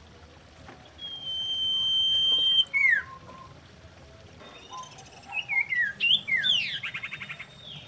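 Common iora singing: a long, steady whistle held for about a second and a half, then a quick falling note; after a short pause, a run of varied chirps and slurs ending in a fast trill.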